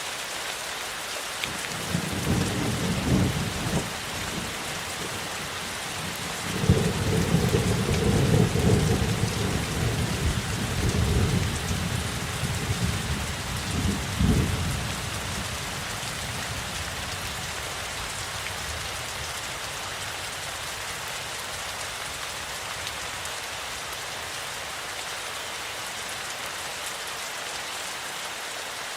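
Steady rain falling, with a long rolling rumble of thunder that begins about two seconds in, swells in several waves, and dies away about halfway through, leaving the rain alone.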